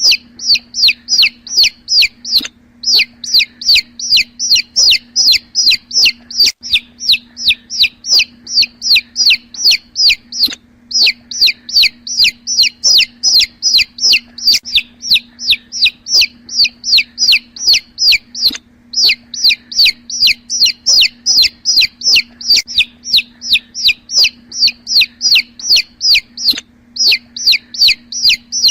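Young chicks peeping: loud, sharply falling high peeps about four or five a second, with a few brief pauses, over a steady low hum.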